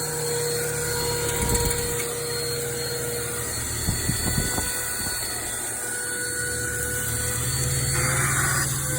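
Power Force compact vacuum cleaner's motor running steadily with a high whine and hiss, its drive belt broken. A few light knocks come about four seconds in as debris is sucked up.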